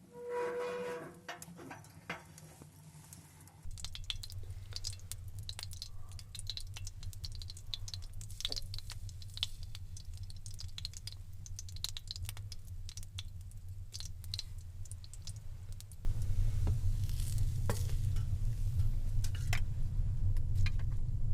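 Potato pancakes and meat frying in a pan on a wood stove, a steady sizzle with scattered pops and spatters over a low rumble. The rumble gets noticeably louder about three-quarters of the way through.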